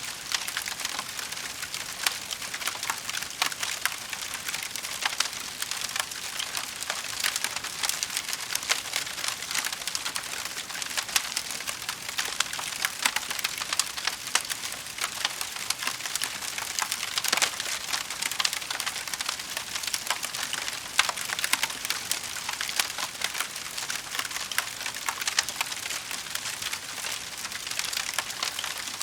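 Wood fire in a fireplace crackling steadily, a dense run of small snaps and pops.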